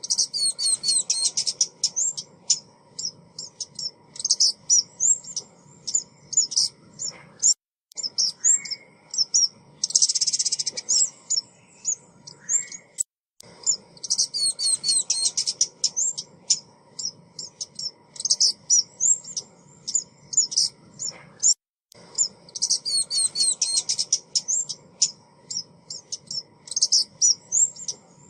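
A small songbird, a female "ốc mít" in Vietnamese, giving rapid high-pitched chirps and twitters in repeated bursts. It is a recorded decoy call used to lure birds. The sound drops out completely for a moment three times.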